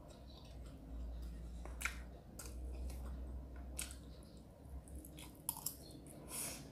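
A person chewing a mouthful of rice close to the microphone, with several sharp wet smacking clicks from the mouth spread through.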